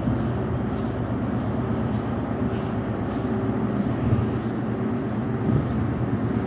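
Delivery train rolling slowly past, hauling a new Merseyrail Class 777 unit coupled to a barrier wagon: a steady rumble of wheels on the rails with a low hum underneath.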